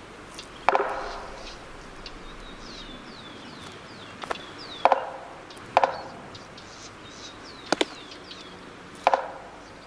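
Sharp knocks on a tree trunk at uneven intervals, some coming as close pairs, mimicking a Magellanic woodpecker's double-knock drumming. Between them comes a run of short, high calls that fall in pitch, from Magellanic woodpeckers answering a supposed rival.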